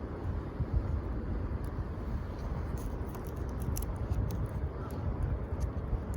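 Low, steady rumble of wind on the microphone, with scattered faint crackles and pops from a wood campfire, most of them between about two and four seconds in.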